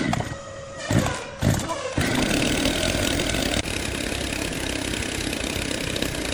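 Heavy sawmill machinery: a few sharp knocks, then a loud steady machine noise that starts about two seconds in and continues.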